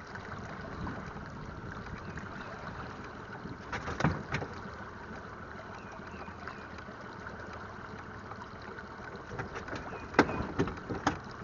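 Steady wind and water noise on a pontoon boat in high wind, with a few sharp knocks about four seconds in and again near the end.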